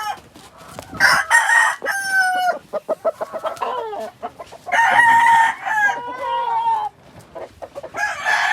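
Gamecocks crowing: two long crows, a few seconds apart, with another starting near the end, and short clucking in between.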